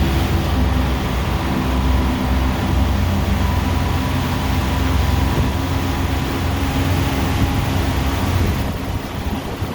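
Boat engine running steadily with a low, even hum, growing a little quieter near the end.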